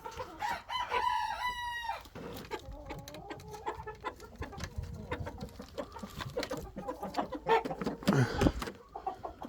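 Roosters crowing and hens clucking, with one long crow in the first two seconds followed by scattered short clucks. A loud low thump comes near the end.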